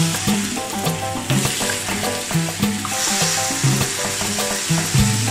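Ribeye steak slices sizzling as they fry, under background music with a steady beat and repeating notes.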